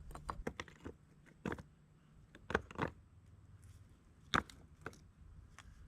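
Scattered sharp knocks and clicks of scrap concrete chunks being handled and set against one another, in small clusters, with the loudest single knock about four seconds in.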